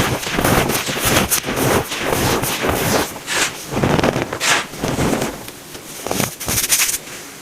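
Packed baking soda being crushed, a dense crisp crunching and crackling in quick irregular bursts, growing quieter near the end.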